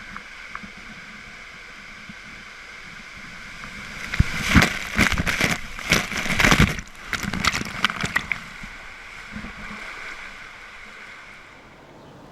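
Water rushing down a speed-slide tube under a rider, with loud splashing and rushing for about four seconds in the middle, then fading back to a steady rush.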